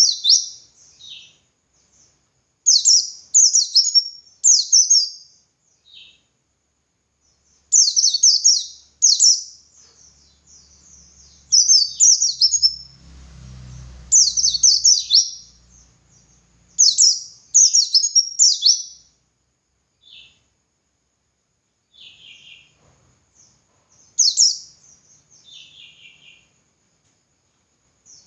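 Pleci (white-eye) singing its rapid, high chirping song in bursts of about a second, repeated again and again with short pauses between them. A faint low rumble sits under the song about halfway through.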